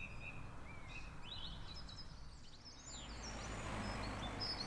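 Outdoor garden ambience: small birds chirping in short calls, starting about a second in and repeating to the end, over a faint steady low hum.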